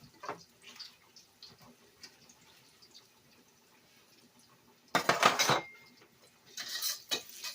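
Metal spatula scraping and clinking against a frying pan while stirring ginger in oil: a few light taps early, then a loud scraping stroke about five seconds in and another shorter one near the end.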